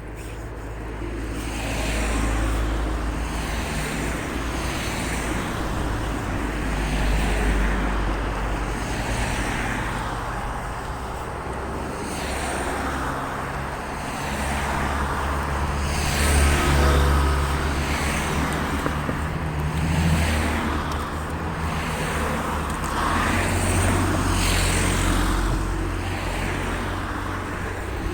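Road traffic: cars passing one after another, each swelling and fading over a few seconds.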